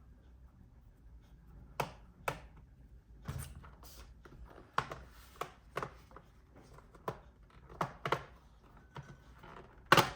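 Irregular sharp clicks and knocks of hard objects being handled on a work surface, about a dozen of them, the loudest one near the end.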